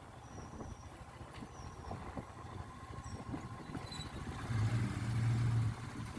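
Motorcycle engine running on a ride, a steady low drone that grows louder for just over a second from about four and a half seconds in.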